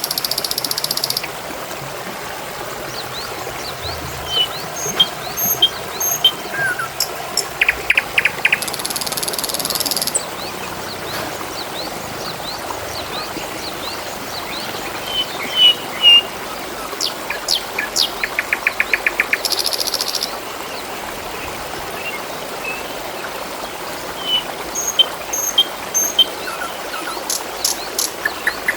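Steady trickling, babbling water with small birds chirping now and then. A rapid trill comes twice, and short bursts of high buzzing recur about every ten seconds.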